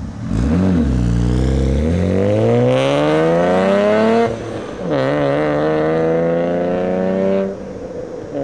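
Car engine accelerating through the gears: its pitch climbs steadily, drops sharply at an upshift about four seconds in, climbs again, then drops once more near the end and settles to a steady cruise.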